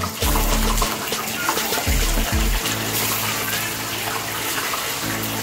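Tofu pieces sizzling in hot oil in a wok as more are dropped in; a steady hissing fry.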